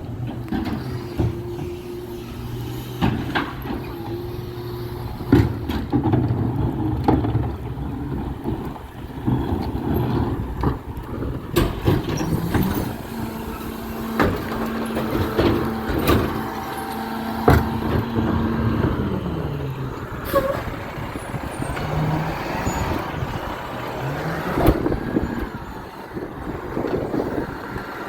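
Garbage truck at work: its diesel engine idles, revs up about halfway through and holds for several seconds while the hydraulics run, then drops back, with repeated sharp clanks and knocks throughout.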